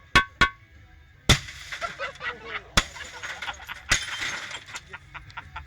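Glass being smashed: two sharp hits, then a heavier crash about a second in, followed by a few seconds of clattering, tinkling debris with more blows.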